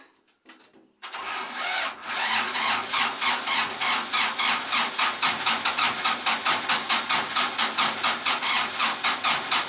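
Old Kubota rice-paddy tractor engine starting: about a second in it catches suddenly, runs a little unevenly at first, then settles into a steady idle with an even beat of about five pulses a second.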